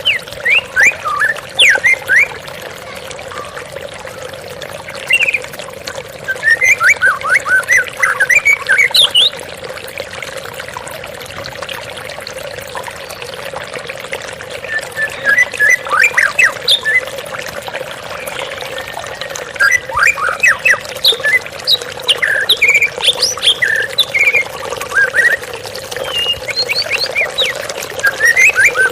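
White-rumped shama (murai batu) singing in several bursts of quick whistled and chipping phrases with pauses between. Under it, the steady rush of a waterfall.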